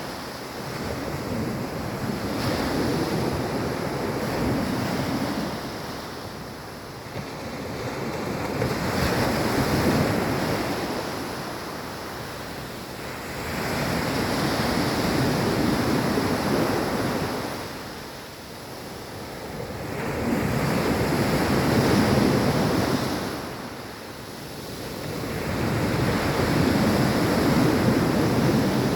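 Soft sea waves breaking and washing up a beach, swelling and fading in slow surges about every six seconds.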